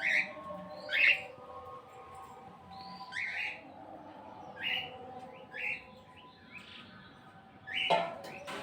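Birds chirping: short high calls repeated every second or two, with a short sharp sound near the end.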